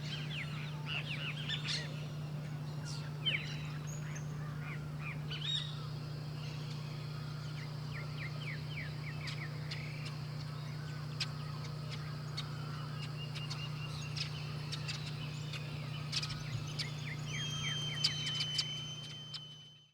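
Several birds calling outdoors: many short chirps and quick downslurred notes, with one long steady whistle near the end, over a steady low hum. The sound fades out at the very end.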